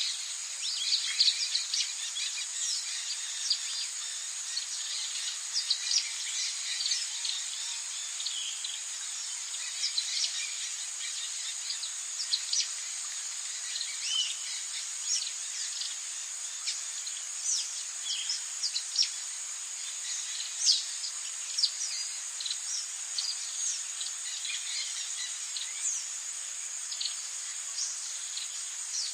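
Rainforest ambience: a steady high-pitched insect drone with many short bird chirps and calls scattered over it.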